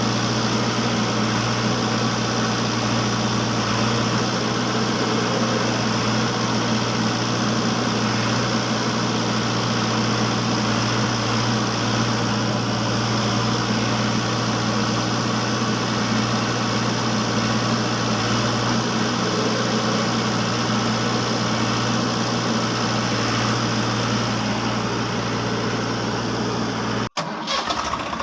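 Small motor of a DIY mini JCB model running with a steady, unchanging hum. It cuts out abruptly for a moment near the end and then resumes with a slightly different tone.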